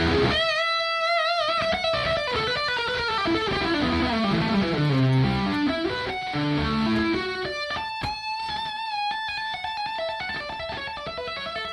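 Electric guitar solo: a long held note with wide vibrato, then a fast run of notes stepping down low and climbing back up, then another long vibrato note about eight seconds in.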